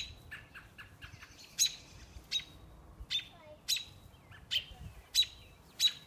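Songbirds calling: about eight sharp, high chip calls, one every second or less, with softer, lower chirps between them.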